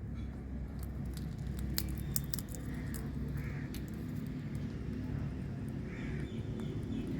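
Indian ringneck parakeet giving a few short, harsh calls, spaced a few seconds apart, over a steady low rumble. A quick cluster of sharp clicks comes about two seconds in.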